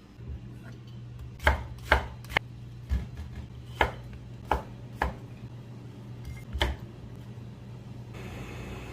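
Kitchen knife chopping on a cutting board: about eight sharp, unevenly spaced strokes.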